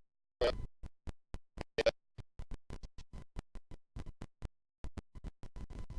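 Broken-up audio: room sound and two brief clipped scraps of a voice in the first two seconds, chopped by rapid dropouts about six times a second into a stuttering, glitchy sequence. The recording's sound is faulty, cutting in and out.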